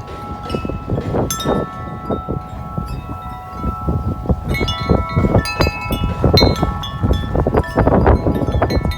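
A 36-inch Corinthian Bells wind chime ringing, its tubes struck again and again in strong gusty wind, with wind buffeting the microphone.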